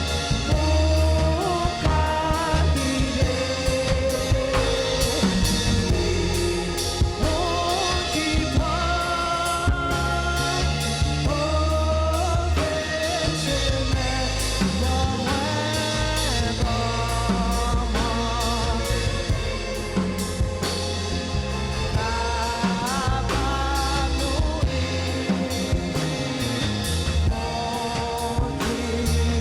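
A worship band playing, with singing over bass and a drum kit keeping a steady beat.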